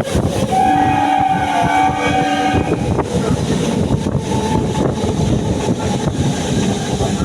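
Local passenger train's horn sounding one held blast of about two seconds near the start, over the steady rumble of the train running.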